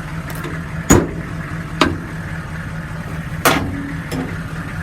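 Sharp metal clanks from the steel utility-bed toolbox doors being handled: three knocks about a second apart, the first the loudest. Underneath, the truck's 6.5-liter diesel V8 idles steadily.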